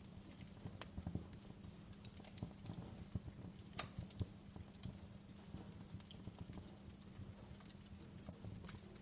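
Wood fire crackling in a fireplace: irregular snaps and pops over a low steady rumble, with one sharper pop about four seconds in.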